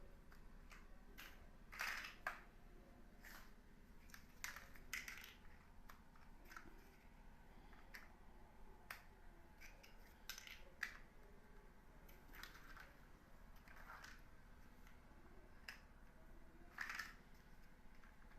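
Small plastic building-block pieces being handled: quiet scattered clicks and brief rustling scrapes at irregular intervals, a few louder ones about two seconds in and near the end.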